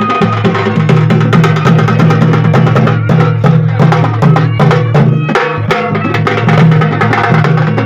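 Drums beaten in a fast, dense rhythm with many sharp strokes, loud and continuous, over a steady low hum.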